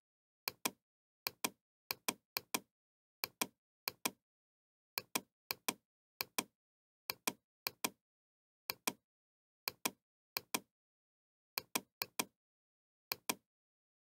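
A knocking sound effect: pairs of quick sharp knocks repeating steadily, roughly every half second to a second, with dead silence between them, marking time while the children count.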